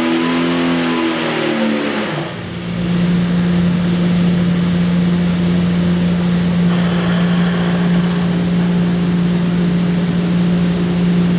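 Jeep 4.6 stroker inline-six engine running on a dyno: its revs drop over the first two seconds, then it settles and holds a steady speed for the rest of the time.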